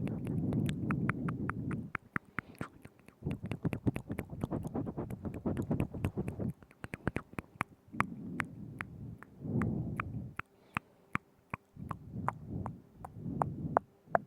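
Close-miked ASMR mouth sounds: quick, irregular wet clicks and smacks of lips and tongue, over stretches of low, muffled rumbling that start and stop every few seconds.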